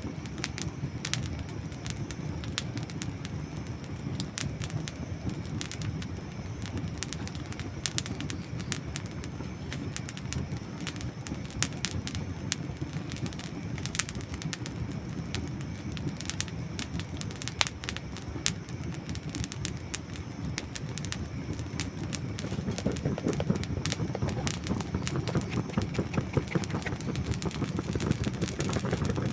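Campfire of dry wood burning, with frequent sharp crackles and pops over a steady low rumble of flames. The rumble swells a little louder about three-quarters of the way through.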